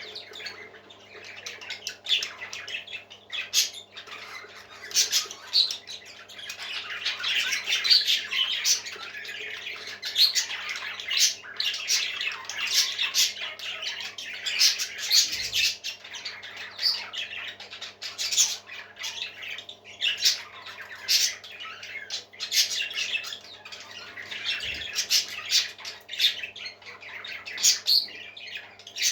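Parrots squawking and chirping in a continuous stream of short, sharp calls, busiest a few seconds in.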